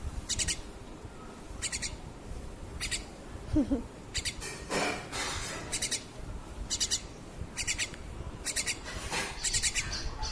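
Small pet bird chirping: short, high chirps repeated at irregular intervals, coming faster toward the end.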